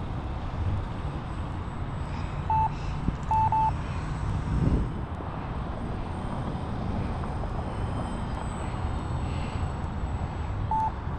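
Distant electric motor of a Turbo Timber Evolution RC airplane cruising, under wind rumbling on the microphone. A few short high beeps sound about two and a half seconds in, twice near three and a half seconds, and once near the end.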